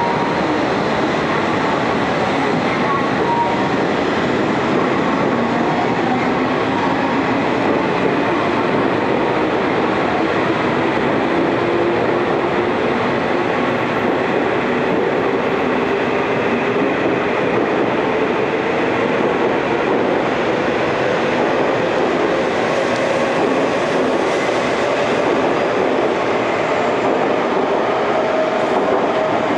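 Coupled E5 and E6 series Shinkansen trainsets rolling steadily past the platform, the wheels and running gear giving a continuous rumble. A faint whine under it rises slowly in pitch, typical of the traction motors as the train gathers speed.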